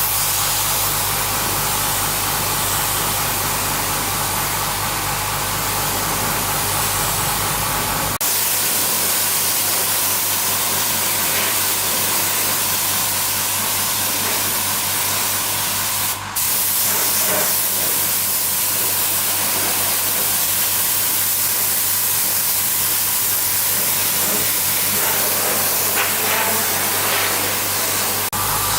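Steady, loud spraying hiss from a compressed-air or pressure spray tool. A low motor hum runs under it for the first eight seconds, drops out suddenly, and comes back near the end; the hiss breaks off briefly about sixteen seconds in.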